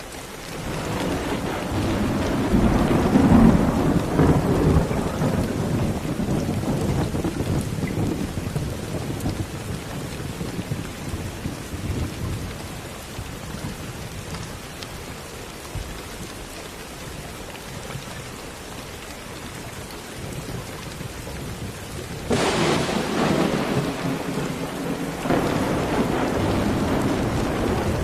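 Steady rain with rolling thunder. A long low rumble swells about a second in and dies away over several seconds; near the end a sharper thunderclap starts suddenly, and a second peak follows a few seconds later.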